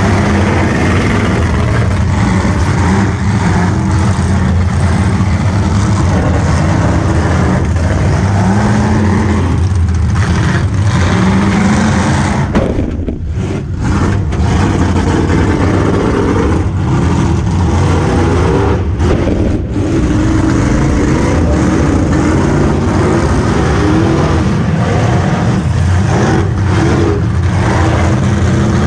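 V8 demolition derby car's engine running hard and revving, the revs rising and falling, heard from inside the car; the sound briefly drops off twice partway through.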